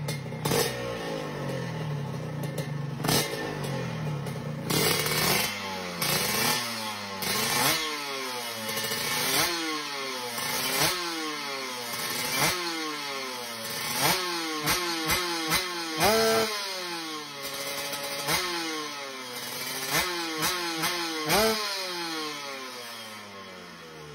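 Kawasaki Ninja two-stroke drag-race engine warming up on the stand. After a few seconds of steadier running, the throttle is blipped over and over: the revs shoot up and fall back about every second or two.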